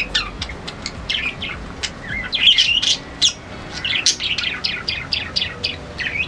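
Small birds chirping: many quick, high calls from several birds overlapping, thickest in two spells a couple of seconds apart.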